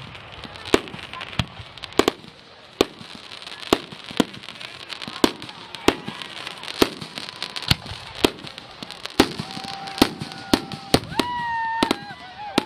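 Fireworks exploding in a steady string of sharp bangs, about one every half second to second, over a continuous crackle.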